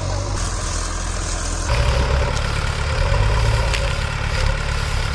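Tractor diesel engine running steadily at low revs, becoming louder and fuller about two seconds in.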